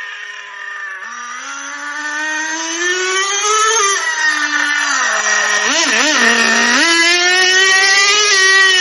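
Heavily modified Traxxas TRX 2.5 nitro engine in an RC truck, with a 3.3 crank, an OS carb and a carbon fibre exhaust pipe, revving as the truck is driven. The pitch climbs for a few seconds, drops around the middle, blips up and down twice, then climbs again and holds high near the end.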